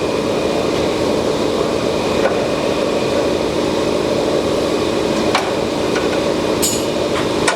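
Geared-head spindle of a Knuth Mark Super S mill/drill running at a high speed setting, a steady mechanical whir and gear noise with a few faint clicks.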